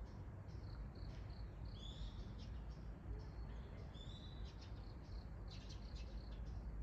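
Small birds chirping with short, high notes, and two longer calls sweeping down in pitch about two and four seconds in, over a low steady rumble.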